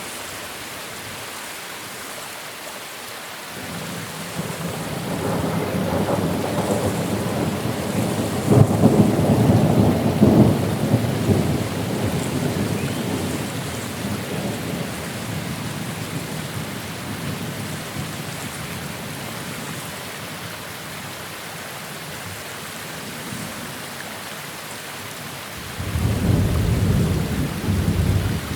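Steady rain with thunder: a rumble builds a few seconds in, peaks, and slowly dies away, then a second, more sudden peal breaks out near the end.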